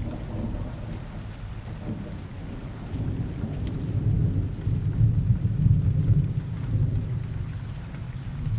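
Steady rain with a low, rolling rumble of thunder that swells about halfway through and then eases.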